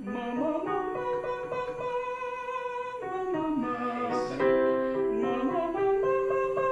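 Male voice student singing a vocal exercise over piano: the voice slides up into a held note, glides down about halfway through, then climbs again, while the piano holds steady chords underneath.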